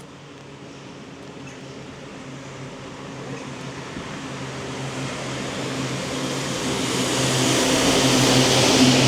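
A road vehicle approaching: engine hum and tyre noise growing steadily louder, loudest near the end as it draws close.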